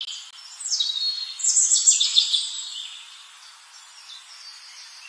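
Birds calling and chirping, with quick high calls sweeping downward in pitch, loudest in the first three seconds and then fainter.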